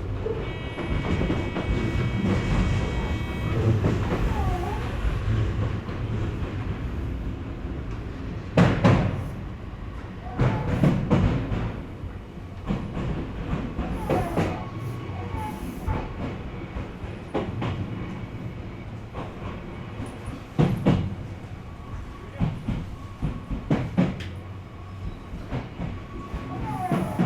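Electric commuter train running on the rails: a steady rumble with wheels knocking sharply over rail joints and points several times. A steady high whine sounds for the first few seconds.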